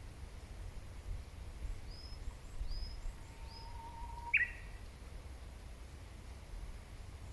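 Wild birds calling: a few short high chirps, a long thin steady note, then one sharp, louder downward call about four seconds in, over a steady low background rumble.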